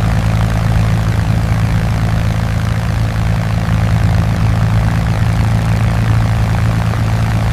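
Engine running steadily at a constant drone with a strong low hum, cutting off abruptly at the end.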